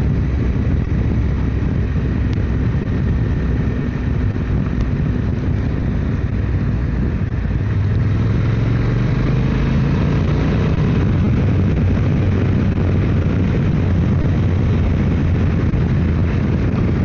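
Motorcycle engine running at road speed with wind and road rush. About halfway through it grows a little louder and the engine note rises slightly as it pulls harder.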